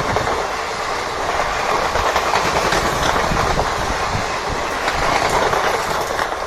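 Passenger coaches of an express train running past at speed, their wheels clattering over the rail joints in a steady, irregular clickety-clack over the rush of the rolling stock.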